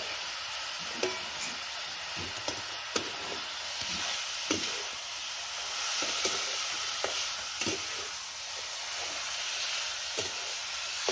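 Ghevda (flat bean) pods and masala sizzling steadily in a steel pan, with a metal spatula stirring and knocking against the pan every second or so.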